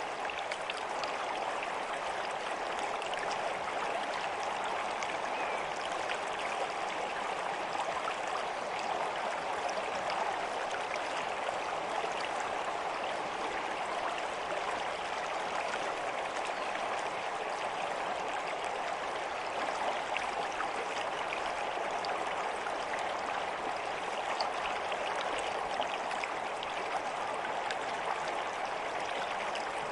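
Stream flowing steadily: an even rush of running water with small splashes scattered through it.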